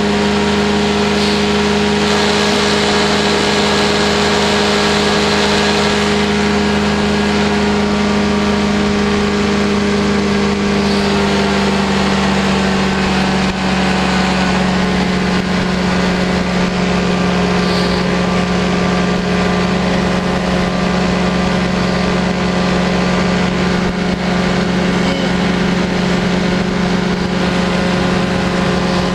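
Powered parachute's engine and propeller running steadily in flight, climbing; about halfway through the engine note drops slightly and settles lower as the throttle is eased back.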